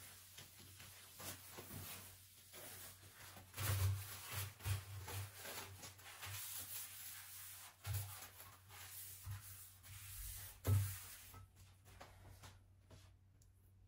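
Household handling sounds: rustling with a few soft knocks and bumps, the strongest a few seconds in, about halfway and shortly before the end, then it falls quiet.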